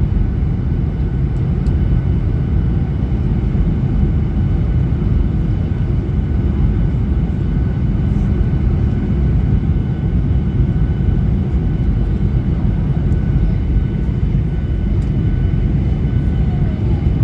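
Steady cabin roar inside a Boeing 737-800 coming in to land: the low rumble of its CFM56 engines and airflow, with a faint steady whine above it.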